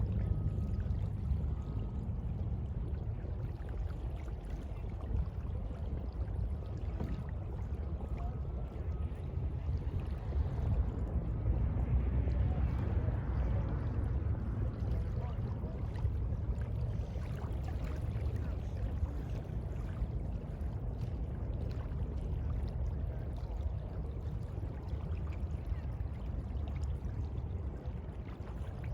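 Sea waves washing in, a continuous rushing sound that swells once about twelve seconds in.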